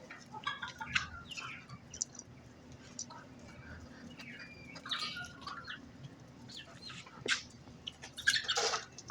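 Hen clucking in short, scattered calls, the loudest near the end.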